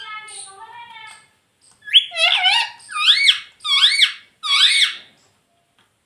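Pet parrot calling: a faint run of falling chirps, then four loud whistled calls in a row, each rising and falling in pitch, about one every three-quarters of a second.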